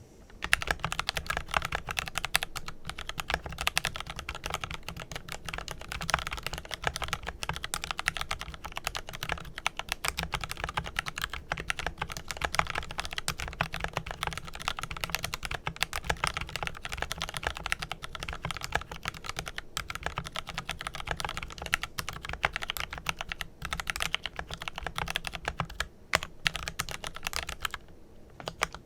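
Fast continuous typing on a Glorious GMMK Pro mechanical keyboard with lubed Kailh Pro Purple tactile switches: a dense run of rapid keystroke clicks that thins briefly near the end.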